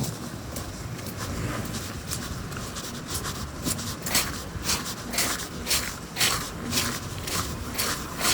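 Footsteps at a walking pace, about two steps a second, each a short crunch, coming more regularly from about three seconds in.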